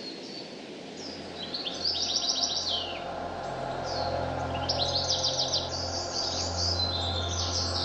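Songbird singing: two phrases of rapid, high repeated notes about a second and a half and four and a half seconds in, with more chirping near the end, over a steady low hum.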